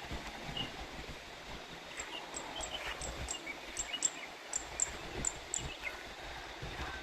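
Rice-field morning ambience: small birds chirping here and there and a run of short, high chirps in the middle, over a steady outdoor hiss with uneven low rumbles.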